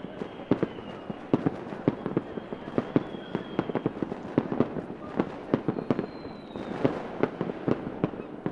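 Fireworks going off in a rapid, irregular string of sharp bangs, several a second, with now and then a thin high whistle.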